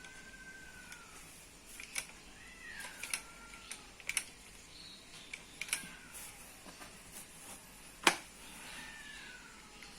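A cat meowing four times, each meow a drawn-out call that falls in pitch, amid scattered sharp clicks and taps. The loudest click comes about eight seconds in.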